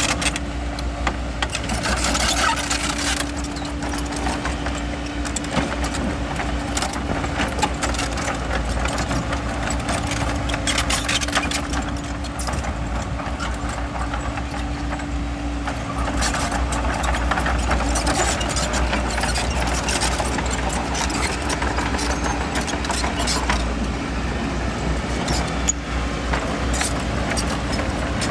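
Bulldozer's diesel engine running steadily under work, with scraping and clattering from the tracks and pushed stone. A steady hum in the engine noise drops away about halfway through.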